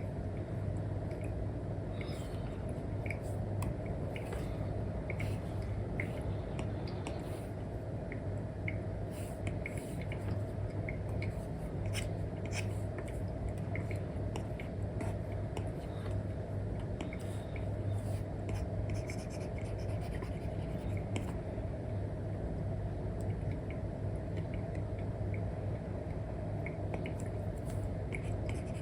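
Apple Pencil nib drawing on an iPad's paper-like screen film: scattered light taps and short scratchy strokes over a steady low hum.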